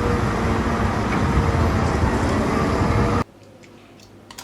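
Loud, steady vehicle noise with a faint hum, cutting off suddenly about three seconds in.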